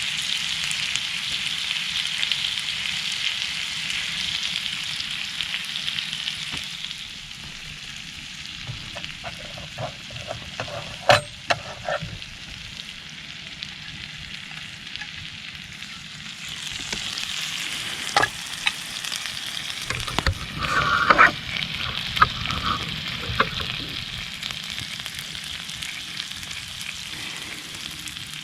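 Meat sizzling and frying on a thick iron griddle over a campfire, a steady hiss that eases after about six seconds and swells again past the halfway point. A few sharp clicks come in the middle and later on.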